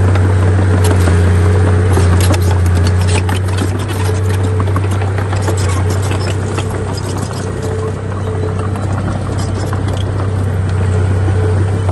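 Heavy diesel earthmoving machinery running steadily, with scattered clanks and scrapes on top.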